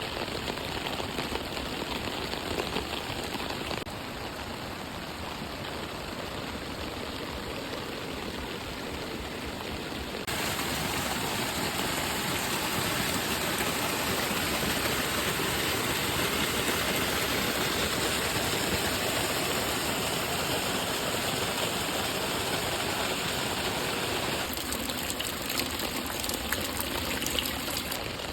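Steady rush of water, rain and running water together, jumping abruptly in level a few times.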